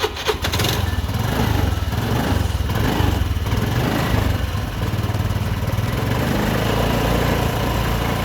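Honda Activa scooter's single-cylinder four-stroke engine catching after a brief starter crank, revved unevenly for a few seconds, then settling to a steady idle. It is running only on the petrol left in the carburettor bowl, with the fuel line disconnected, to drain it.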